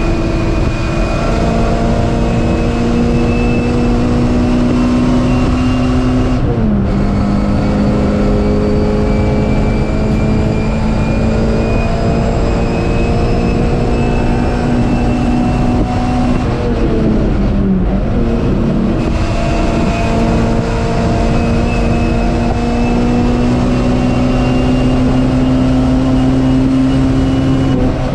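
MG Metro race car's A-series four-cylinder engine heard from inside the cabin, running hard with the revs climbing slowly. The revs drop sharply about six and a half seconds in and again about eighteen seconds in, then build again.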